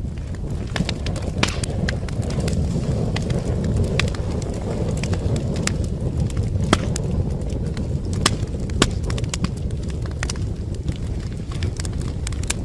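Wood fire in a fireplace crackling: irregular sharp pops and snaps over a steady low rumble of the burning flames.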